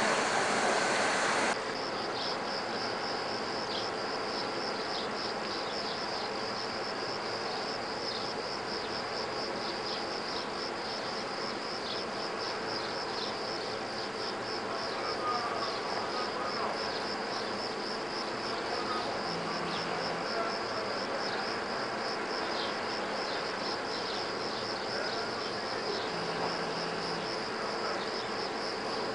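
Railway train noise that cuts off abruptly about a second and a half in, followed by a steady high chirring of insects with a rapid pulsing rhythm over a faint background hum.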